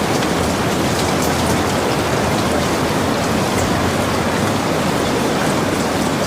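Steady rain: an even hiss of falling water with faint ticks of individual drops scattered through it.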